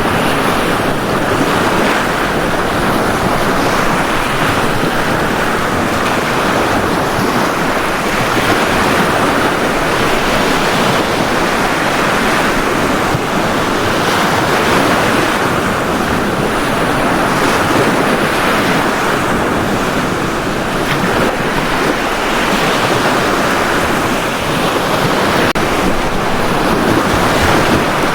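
Ocean surf on a beach: a continuous rush of breaking and washing waves that swells and eases a little, with no single crash standing out.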